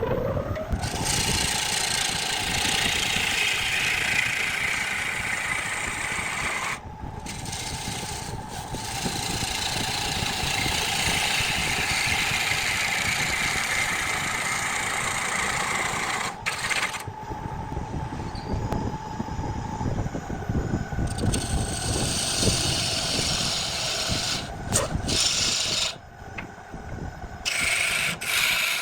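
A wood lathe's motor spins up, its pitch rising, then runs steadily. A turning tool cuts the spinning wood in long scraping, hissing passes, with several short breaks where the tool comes off the wood.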